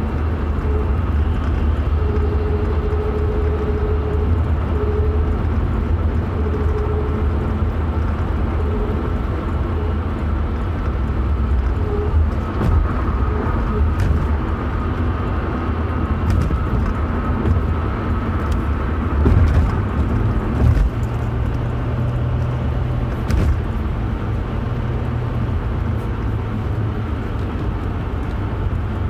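Car driving noise: a steady low rumble with a faint tone that comes and goes in the first half, and a few light clicks.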